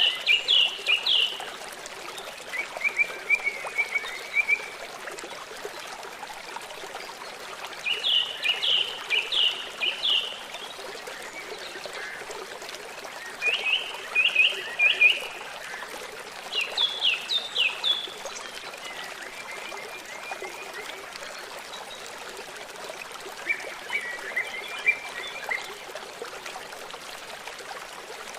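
River or stream flowing steadily, with short bursts of rapid, high, repeated animal calls about every three to five seconds, seven or so in all.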